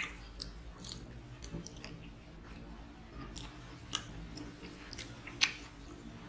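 Close-up chewing of a mouthful of chicken curry and rice, with soft wet mouth sounds and a few sharp clicks, the loudest near the end.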